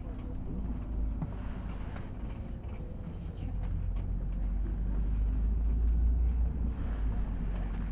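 Cabin of a LiAZ 6213 articulated city bus under way: a steady low engine and road rumble that swells about halfway through and eases off near the end.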